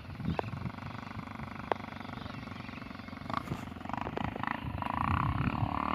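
Trail motorcycle engine running, with a low rumble that grows louder and busier in the second half as the bike revs, with a couple of sharp clicks early on.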